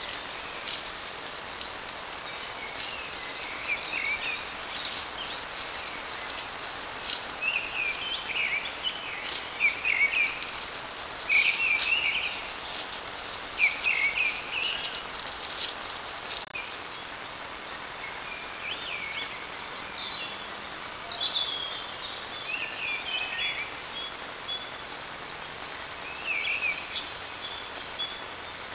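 Woodland birds singing: short chirping song phrases repeated every couple of seconds, with a run of high thin notes in the second half, over a steady hiss.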